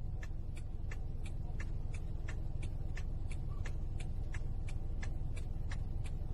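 A steady low engine-like rumble, like a vehicle idling, with a sharp regular tick about three times a second.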